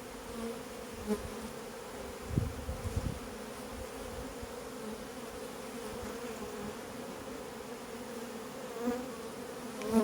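Honeybees buzzing around an open hive: a steady, even hum, with a few low bumps about two and a half seconds in.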